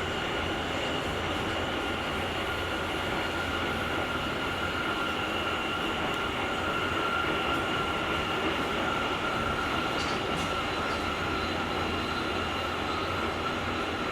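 Interior running sound of a JR Kyushu 883 series limited-express EMU (GTO inverter car) travelling at speed, heard from the vestibule. A steady whine sits over continuous rolling and rail noise.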